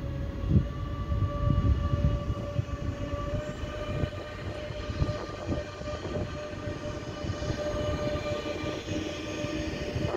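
A DB Intercity 2 double-deck train, led by an electric locomotive, rolling past: a low rumble of wheels with scattered knocks and clatter, mostly in the first few seconds, and a steady whine held over it.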